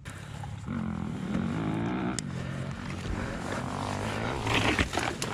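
A motor running steadily, its pitch wavering up and down, with a few light clicks near the end.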